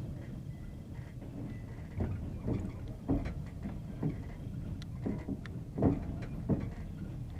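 Passenger train wheels knocking over the joints of jointed rails, the clickety-clack heard from inside the carriage. Sharp, irregular knocks come over a steady low running rumble, the loudest about three and six seconds in.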